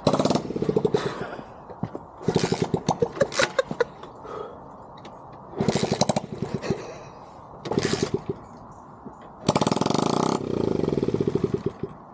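Dax mini motorcycle's small engine, run without its exhaust, catching in about five short bursts of rapid, loud firing and dying after each. It will not keep running because the clogged carburetor lets too little fuel through.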